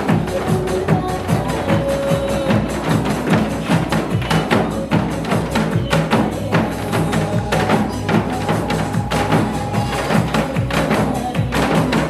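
Janggu, the Korean hourglass drum, struck in a fast, steady rhythm along with a recorded song that carries a held melody.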